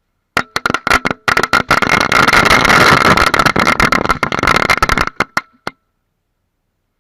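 A string of firecrackers going off: a few separate bangs at first, then a dense rapid crackle of bangs for about four seconds, tapering to a few last pops and stopping abruptly.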